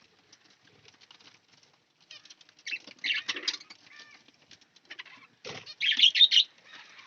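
Caged budgies and finches: after a quiet start with faint ticks, short bursts of wing fluttering and chirping about three seconds in, and a louder cluster near the end, led by a single knock.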